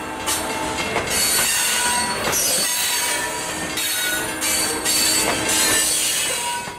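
Covered hopper cars of a freight train rolling past close by: a steady rumble and hiss of wheels on rail, with short high-pitched wheel squeals that come and go.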